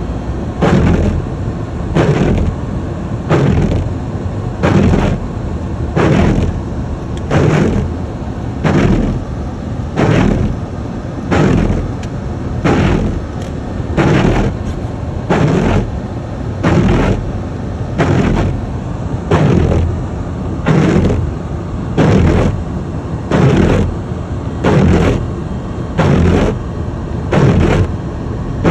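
Car windshield wipers sweeping in even rhythm, a stroke about every two-thirds of a second with every other stroke louder, over the steady road and engine noise inside a moving car's cabin.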